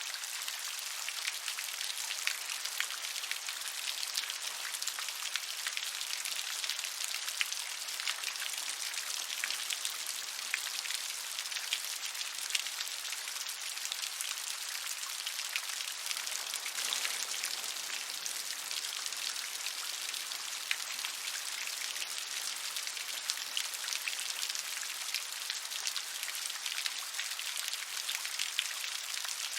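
Steady rain falling, an even hiss dotted with many separate drop hits, unchanging throughout.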